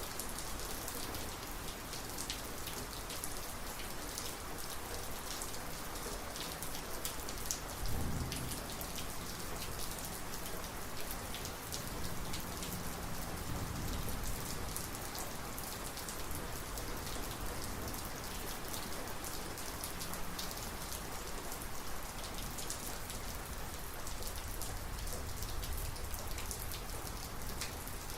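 Steady heavy rain falling on surfaces during a thunderstorm, with many close drops spattering. A brief low thump about eight seconds in, and faint low rumbling of distant thunder in the middle.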